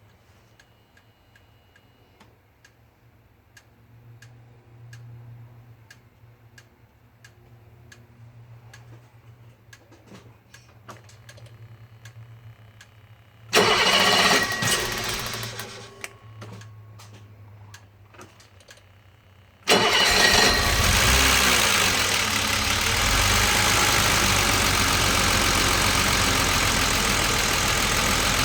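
BMW 635CSi straight-six being started twice: a first attempt about halfway in runs loudly for a couple of seconds and dies away, and a second attempt a few seconds later catches and keeps running. This is the struggling start the owner is investigating. Before the first attempt there is only a low hum and faint ticking.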